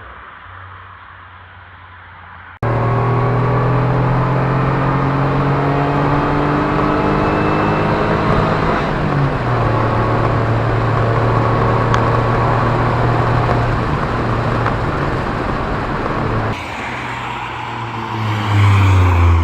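Supercharged Ford Probe 2.5 KL-DE V6 running through its valved active exhaust: a muffled engine at first, then a sudden step up to a loud engine and exhaust note that climbs slowly in pitch as the car accelerates. Near the end it drops back, followed by a deep, loud burst.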